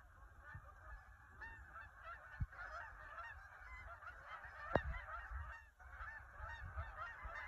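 A flock of geese honking, many faint overlapping calls without a break, with two soft knocks about two and a half and five seconds in.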